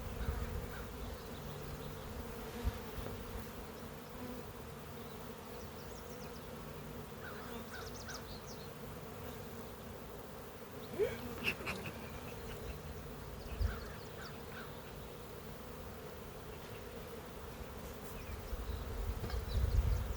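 A large number of honey bees buzzing as a steady hum, with a few light clicks and knocks near the middle.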